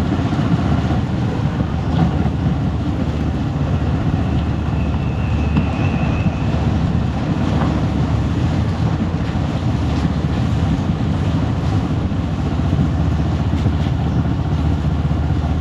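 Motorcycle running at a steady cruise, its engine and road noise mixed with wind rushing over the camera's microphone.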